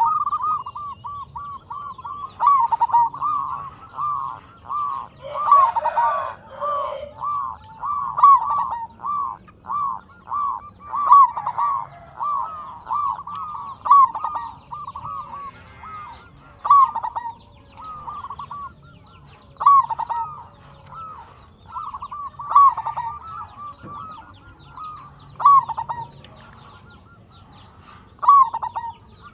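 Zebra dove (perkutut) cooing in long runs of quick, rippling notes, phrase after phrase with short pauses between. A brief burst of noise comes about six seconds in.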